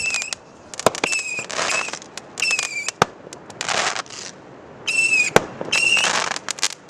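Fireworks going off: sharp bangs about 1 s, 3 s and 5.5 s in, bursts of hissing and crackling, and short high whistles that recur every second or so.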